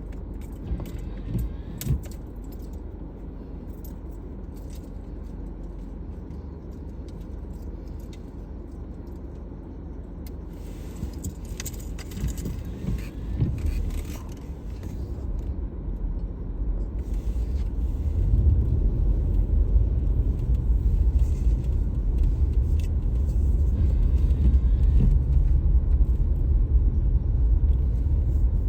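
A car driving: a steady low road-and-engine rumble with scattered light rattles and clicks, the rumble growing clearly louder about two-thirds of the way through.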